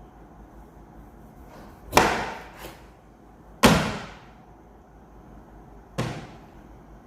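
Three sharp knocks of kitchen things being set down or struck, each with a short ringing tail. They come about two seconds apart, and the last is the softest.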